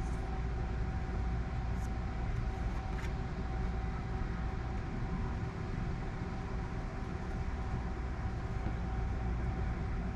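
Steady low rumble with a thin constant hum above it, unchanging throughout, and two faint ticks about two and three seconds in.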